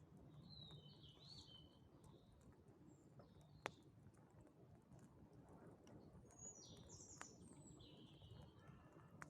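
Faint bird chirping in two short bursts of song, one near the start and one near the end. Two sharp single pops from the campfire come about a third of the way in and again near the end.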